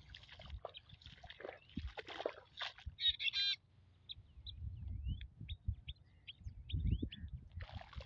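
Wild birds calling: a harsh, buzzy call about three seconds in, then a string of short, sharp chirps. A low rumble of wind on the microphone runs underneath.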